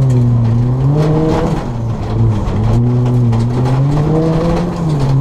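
Ford Fiesta ST rally car's turbocharged four-cylinder engine driven hard on a rallycross course, its pitch rising and falling twice as the throttle comes on and off through the corners, with scattered short knocks over it.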